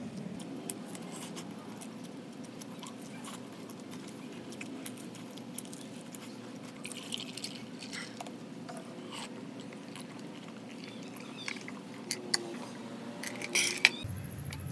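Chewing and mouth sounds of someone eating, with scattered small clicks and taps. Midway, water is poured into a mug from a plastic bottle. A sharper knock comes near the end.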